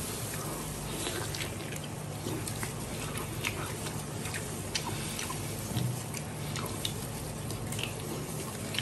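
A person chewing and sucking meat and gelatinous skin off a cow hoof, heard as many small, irregular wet smacks and clicks. A steady low hum runs underneath.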